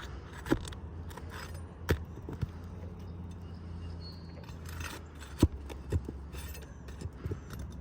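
A pry tool working under asphalt shingles to pull roofing nails: irregular sharp metal clicks and taps, about seven in all, with light scraping in between. A steady low hum runs underneath.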